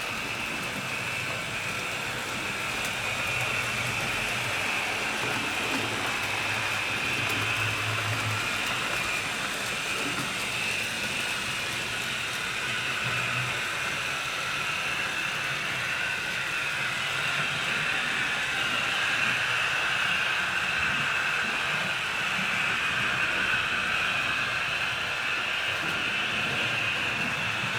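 HO scale model trains running on the layout: a steady running sound of small locomotive motors and wheels on the track, with a low hum that comes and goes.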